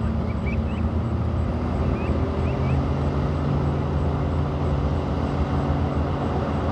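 Army truck's engine running hard under load while pulling the weight sled, its pitch rising slightly about three seconds in.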